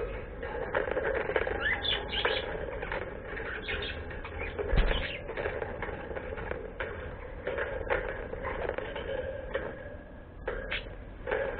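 A pet bird flapping its wings, with scattered quick clicks and short chirps and one louder thump about five seconds in.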